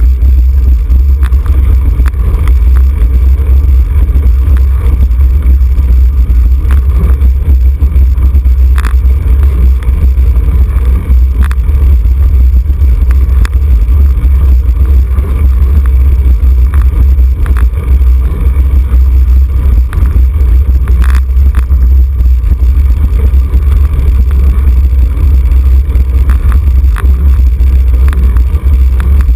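Wind buffeting a bicycle-mounted camera's microphone at racing speed: a loud, steady low rumble with scattered short clicks.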